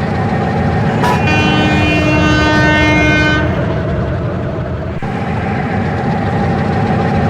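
Train horn sounding one steady blast of about two seconds, a chord of several tones, over a steady low rumble.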